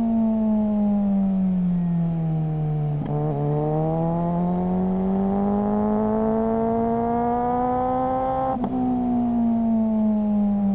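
Suzuki GSR600 inline-four engine through a GPR Ghost aftermarket exhaust, ridden on the road. The engine note sinks as the bike slows on a closed throttle, then climbs steadily under acceleration for about five seconds. It drops off again with the throttle shut near the end, with a brief crackle at each change of throttle.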